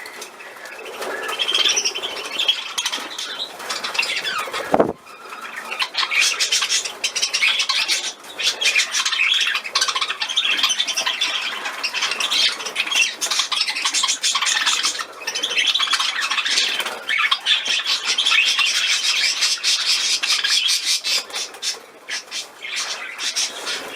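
Pet budgerigars chattering and chirping without pause, many quick high notes, with one sharp knock about five seconds in.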